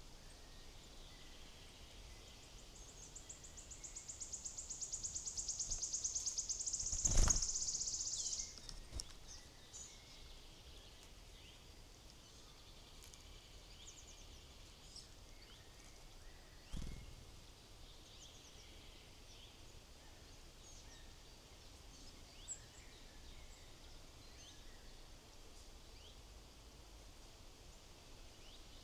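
Wild birds at a feeder: scattered faint high chirps and calls, and a rapid high trill that grows louder over several seconds. A sharp knock comes about seven seconds in, and a softer one at around seventeen seconds.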